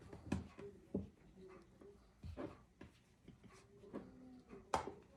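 Faint, scattered light knocks and taps of hands working puff pastry into a baking tray, a few seconds apart.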